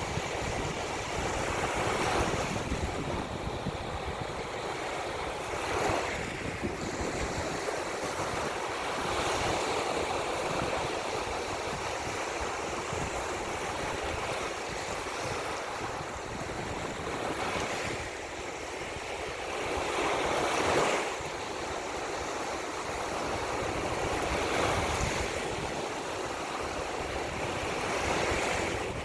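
Ocean surf, waves washing in and swelling every few seconds over a steady rush of water, with wind blowing across the microphone as a low, uneven rumble.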